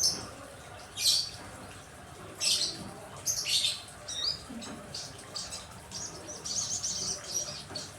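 Birds giving short, high, repeated chirps, with a steady hiss of rain behind them.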